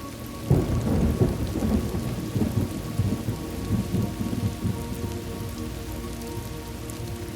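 Thunderstorm: a clap of thunder breaks about half a second in and rumbles on with crackling peaks, fading over several seconds, over steady rain.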